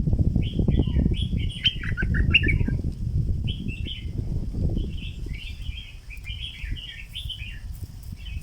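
Stripe-throated bulbul singing repeated quick, bubbly chattering phrases, over a loud low rumbling noise that fades after about five seconds.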